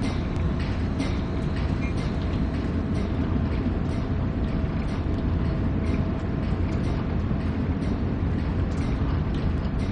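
Train running along the track: a steady low rumble with frequent clicks from the wheels passing over the rail.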